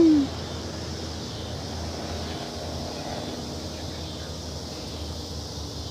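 Steady low road and engine noise inside a moving vehicle, with a short falling vocal sound at the very start.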